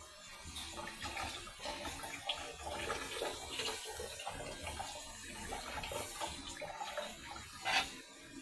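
Steady sound of water with faint, irregular ticks.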